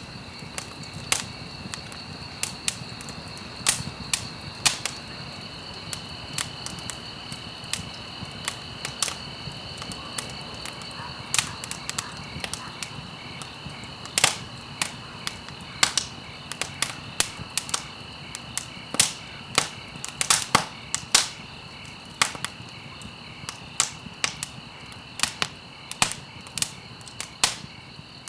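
Wood fire burning in a fireplace, crackling: sharp, irregular pops and snaps, sometimes several in quick succession, over a steady soft hiss.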